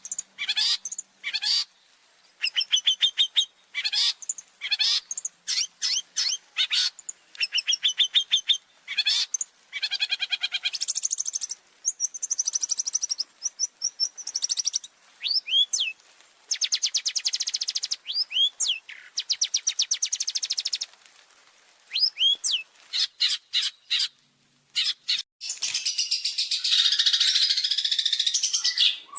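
Long-tailed shrike (cendet) singing a lively, varied song. It runs through bursts of rapid repeated notes and a few clear downward-slurred whistles, and ends in a long harsh chattering run near the end.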